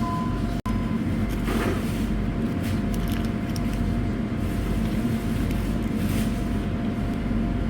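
Steady low rumble of a car running, with a faint steady whine over it; the sound cuts out for a split second about half a second in.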